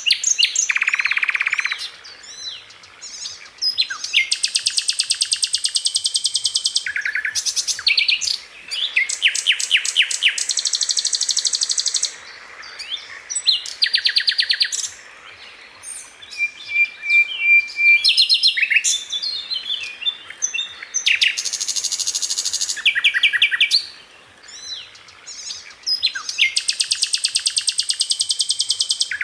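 Sikatan londo flycatcher singing: bursts of very fast, high rattling trills and chattering notes, each lasting a second or few, with short pauses between them.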